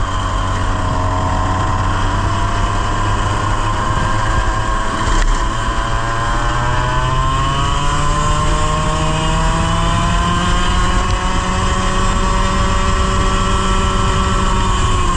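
100cc two-stroke racing kart engine heard onboard, under way at speed; its pitch dips slightly, then climbs slowly for several seconds and eases off again near the end.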